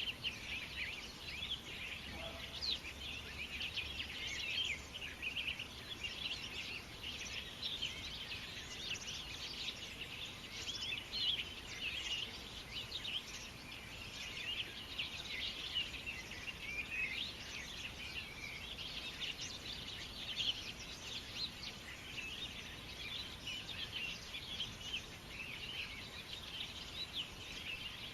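A chorus of many small birds chirping over one another, a dense, unbroken twittering.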